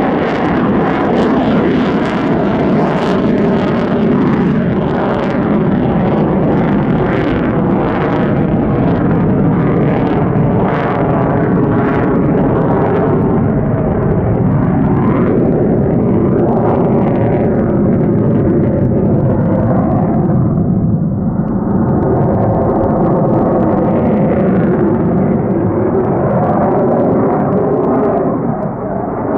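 F-35A fighter's single Pratt & Whitney F135 afterburning turbofan, loud continuous jet noise as the jet flies its display manoeuvres. The noise holds steady with shifting sweeping tones and eases briefly about two-thirds of the way through.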